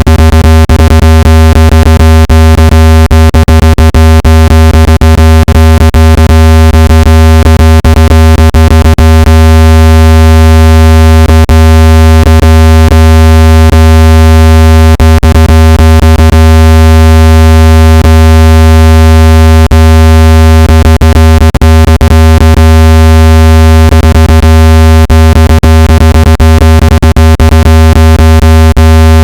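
Steady, loud low synthetic buzzing tone with many overtones and scattered crackles, a speaker-cleaning tone meant to shake water and dust out of a phone speaker.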